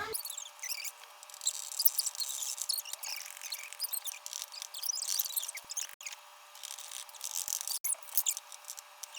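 Packing paper crinkling and rustling as it is handled and wrapped around a bottle, an irregular run of small crackles throughout.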